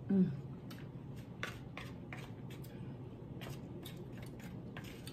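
Close-miked chewing: a person eating, with a quick series of wet mouth clicks and smacks. It opens with a short hummed 'mm' that falls in pitch.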